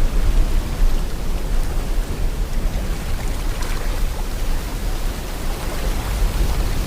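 Sea water and wind: a steady rushing noise with a strong low rumble, swelling a little now and then.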